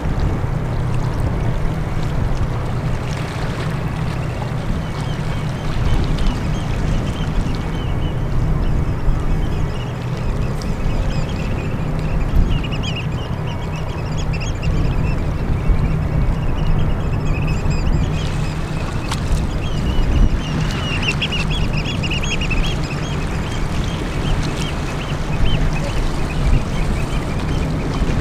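Birds calling in runs of short repeated quacking calls, through the middle of the stretch, over a steady low rumble.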